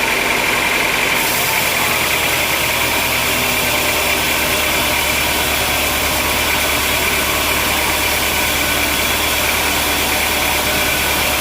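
Sawmill machinery running steadily: a continuous motor drone with a steady high-pitched whine above it.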